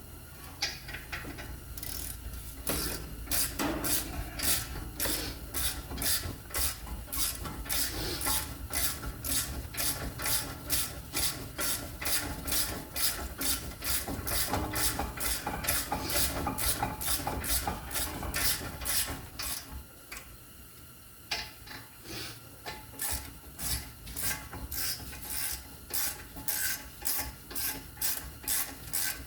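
Ratchet wrench clicking steadily, about two to three clicks a second, as brake caliper bolts are run down and tightened. The ratcheting pauses briefly about two-thirds of the way through, then starts again.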